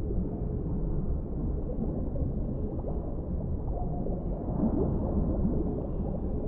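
Underwater ambience: a steady low rumble with short bubbling gurgles, thickest about four to five seconds in.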